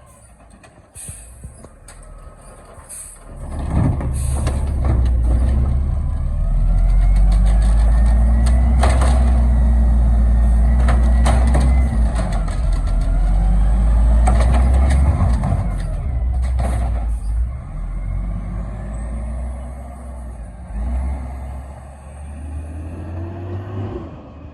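Garbage truck engine revving up and down, loud and heavy from about four seconds in, with clanks and knocks and short hisses of air. It drops back to a lower running sound in the last third.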